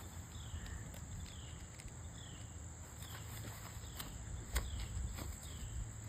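Outdoor insect chorus: a steady high-pitched drone with a short falling chirp repeating about once a second, over a low rumble and scattered light clicks.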